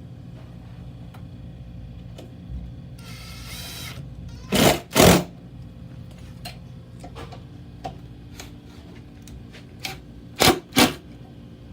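Power screwdriver run in short bursts driving screws: two quick bursts about four and a half seconds in and two more near the end, over a steady low hum.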